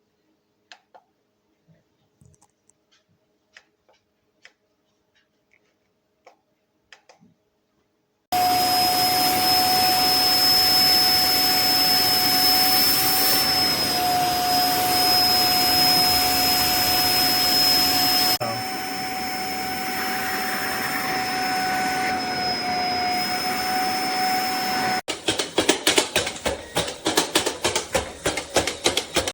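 A few faint clicks, then the motors of an iDOO cordless electric spin mop start abruptly about eight seconds in and run with a steady whine. About ten seconds later the sound drops to a lower level, and in the last few seconds it turns into a fast rattling pulse.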